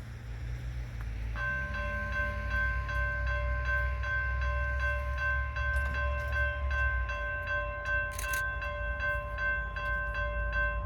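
Diesel freight locomotive rumbling as it approaches, with its multi-chime air horn sounding one long steady chord from about a second and a half in.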